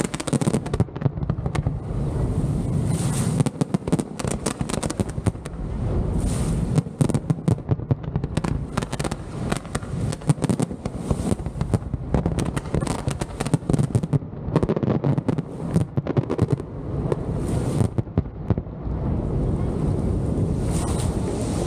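Pirotecnia Vulcano fireworks display: a dense, continuous barrage of bursting shells and crackling reports, many sharp bangs in quick succession, thinning out somewhat near the end.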